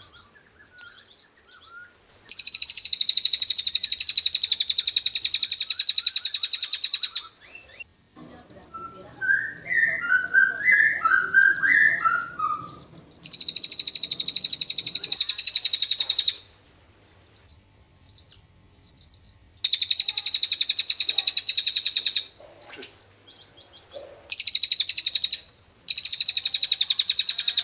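Cililin bird singing its long, rapid, high trills ("ngriwik panjang"), each lasting a few seconds and repeated five times, with a short spell of lower chirping notes between the first and second trill.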